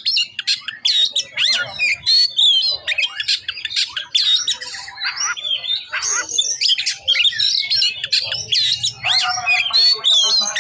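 Oriental magpie-robin singing a fast, unbroken medley of whistles, chirps and harsh squawks, strung with phrases mimicked from other birds. A buzzy, nasal phrase comes near the end.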